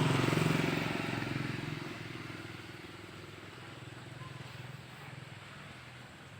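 A vehicle engine humming as it passes, loudest at the start and fading away over the first two or three seconds.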